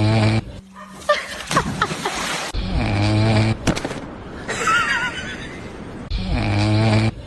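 A sleeping dog snoring in long, groaning breaths that repeat about every three seconds, with a short high whine near the middle.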